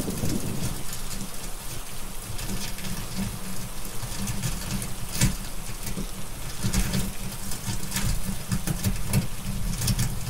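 Steady rain falling, with scattered sharp crackles of a wood fire and a low rumble underneath. A roll of thunder fades away in the first second.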